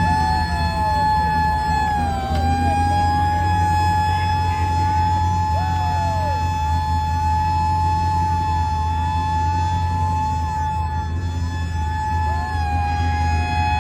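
Fire truck sirens and horns sounding together. One steady high tone holds throughout and sags briefly twice, while other sirens wail up and down beneath it over a low engine rumble.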